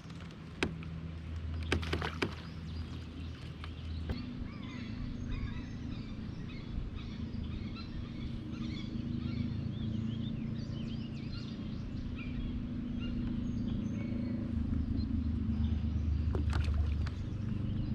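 Birds chirping over a steady low hum on open water, with a few sharp knocks in the first few seconds and again near the end.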